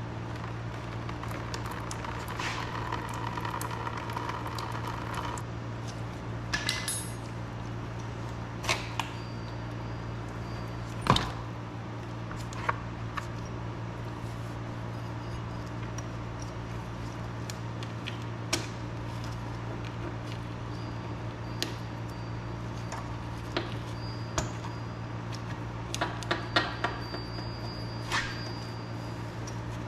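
Scattered metallic clicks, clinks and short rings of hand tools working the fuel petcock off the underside of a motorcycle gas tank, the sharpest click about 11 seconds in, over a steady low hum.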